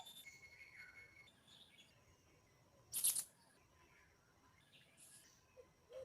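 Several birds calling: scattered short, high chirps and a thin, steady whistled note in the first second, with one loud, harsh call about halfway through.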